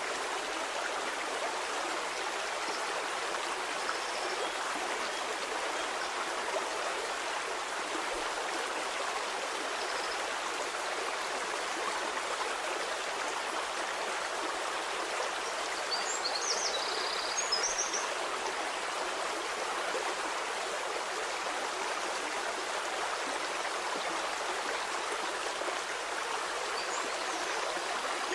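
Stream water flowing steadily, a continuous rushing babble. About two-thirds of the way through there is a brief cluster of short high chirps.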